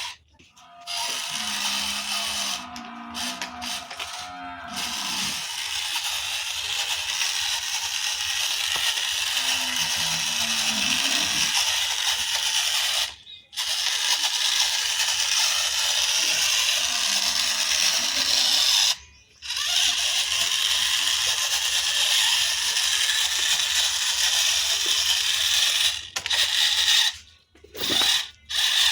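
Small electric motor and gears of a toy RC tractor whirring as it drives, stopping briefly a few times.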